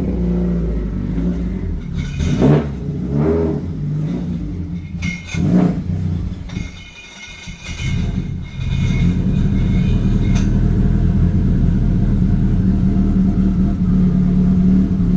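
Subaru WRX's turbocharged flat-four engine revving up and down a few times, then running at a steady note for the last six seconds or so.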